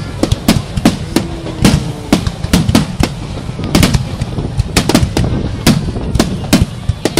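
Aerial firework shells bursting in quick succession, a sharp bang two or three times a second over a continuous low rumble.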